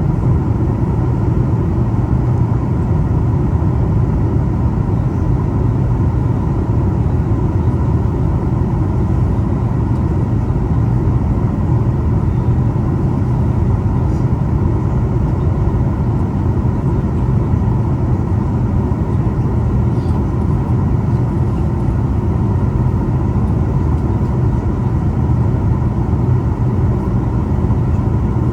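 Steady cabin noise inside a Boeing 737 MAX 8 airliner: a constant low roar of its engines and the airflow, with a faint steady hum above it.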